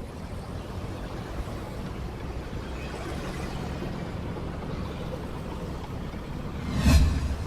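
Motorcycle engine and road noise, a steady low running rumble in street traffic, with a brief loud burst, a thump or gust, about seven seconds in.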